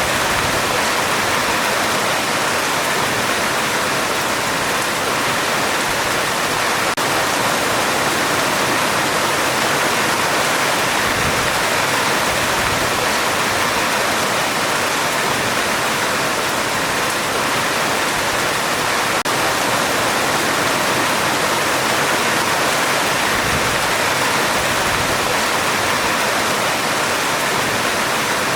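Heavy rain falling on a metal roof as a steady, unbroken hiss.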